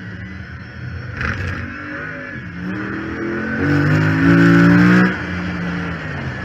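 Chrysler 300 SRT8's 6.4-litre HEMI V8 under hard acceleration, its pitch rising from about two and a half seconds in and loudest just before it drops off suddenly about five seconds in, then running on more quietly. A high whine rides over the engine, which the owner puts down to the failed power steering pump.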